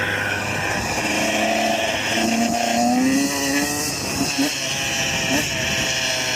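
A 125cc motorcycle engine accelerating: its pitch climbs, drops back and climbs again as it revs up through the gears.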